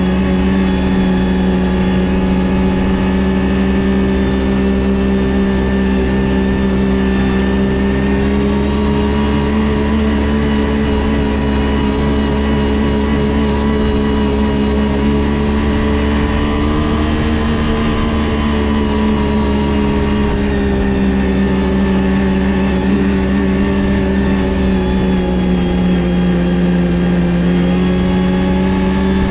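Ski-Doo GSX 600 HO snowmobile's two-stroke twin engine running steadily under way on the trail. Its pitch climbs gently and eases back a few times, with a brief dip near the end.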